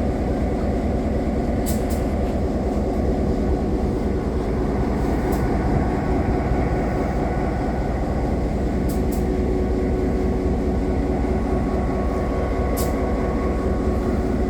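Train running: a steady low rumble with faint steady tones and a few sharp clicks scattered through it.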